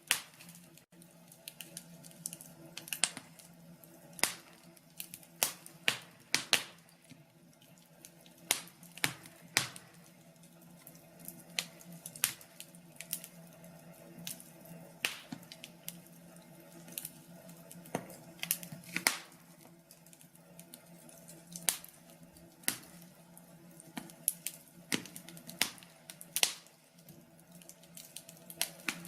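Wood fire crackling in a fireplace: irregular sharp pops and snaps, several a second, some much louder than others, over a faint steady hum.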